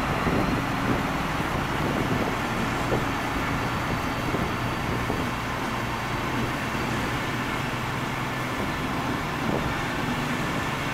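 Diesel-hauled Intercity train pulling slowly out of the station: a steady rumble of the coaches' wheels rolling on the rails, with the low drone of the diesel locomotives' engines from the head of the train.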